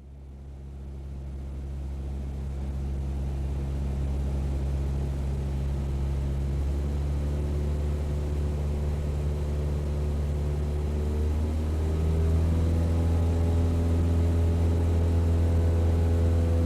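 Car engine droning at steady speed while driving. It fades in over the first few seconds, and its pitch rises and gets a little louder about twelve seconds in.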